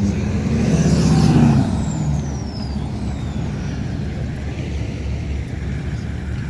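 Car engines running: one revs up and eases off about a second and a half in, over a steady low engine rumble.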